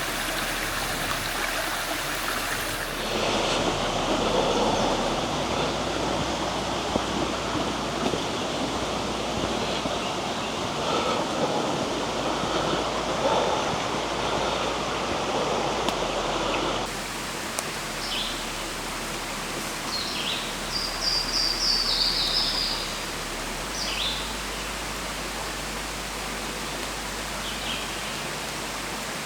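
Rocky creek rushing steadily over stones, its sound shifting abruptly about three and seventeen seconds in. A few short high chirps in the second half.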